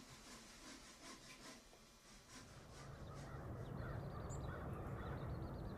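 Near silence for about two seconds, then faint outdoor ambience: a low steady hum with a bird calling in quick, short, high notes.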